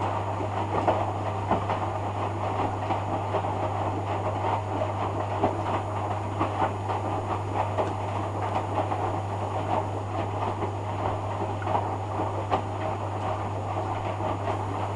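Hoover Dynamic DYN11146PGBCH front-loading washing machine in its rinse cycle: the drum turns with a steady motor hum while wet laundry and water tumble and slosh with irregular soft knocks. The tumbling runs for about fifteen seconds and eases just after the end.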